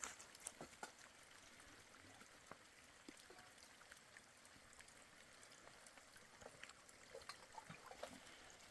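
Near silence: a faint steady hiss with scattered small ticks.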